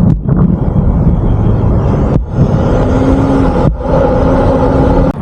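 Steady, loud low rumble of a vehicle driving, with a faint steady hum, cut off abruptly twice as the footage jumps between short segments.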